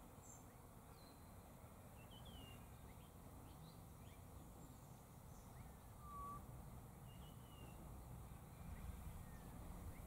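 Faint background with scattered small bird chirps and a short clear whistle about six seconds in, over a low rumble.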